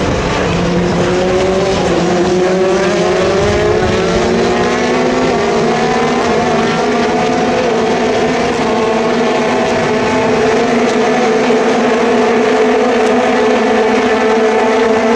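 Racing car engines running, their pitch rising over the first few seconds and then holding steady at high revs.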